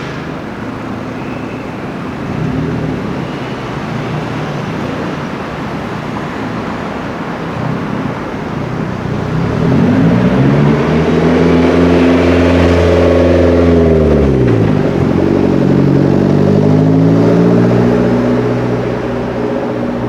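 A performance car's engine revving up hard under acceleration amid street traffic. Its pitch climbs about halfway through, drops sharply, then climbs and falls again.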